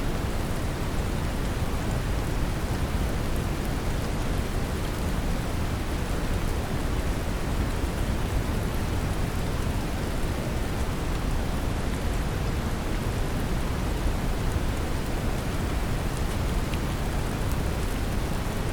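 Steady brown noise, a deep, even hiss, mixed with the patter of gentle rain.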